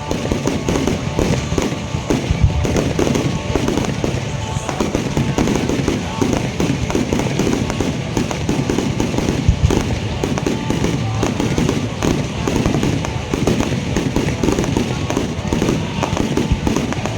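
Fireworks going off in a dense, continuous barrage of bangs and crackles, with no pause.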